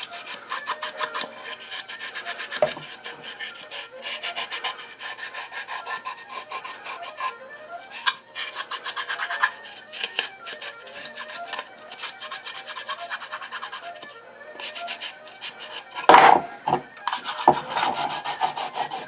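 Scrubbing the inside of a wooden coffee-grinder drawer: rapid, continuous rubbing strokes against the wood, with a louder burst of scraping about sixteen seconds in.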